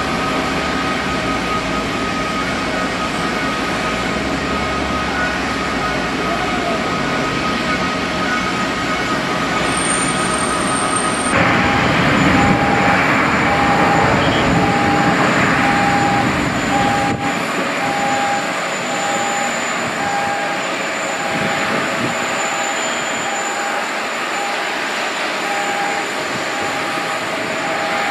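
Steady jet noise of a Korean Air Airbus A380. About a third of the way in it becomes louder and brighter, and a short beep starts repeating about once a second.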